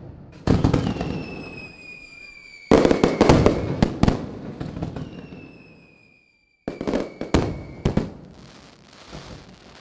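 Fireworks: three bursts of bangs and crackling, about half a second, nearly three seconds and nearly seven seconds in, each fading away, with a thin whistle slowly falling in pitch after the first two.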